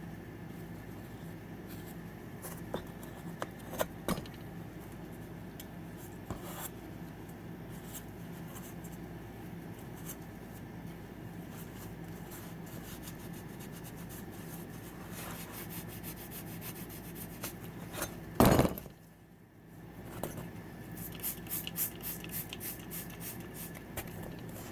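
Hand tools clinking and scraping on metal engine parts as a four-wheeler's carbon-fouled header and cylinder area are cleaned, over a steady background hum. There is a loud knock about three-quarters of the way through, then a run of quick scrapes near the end.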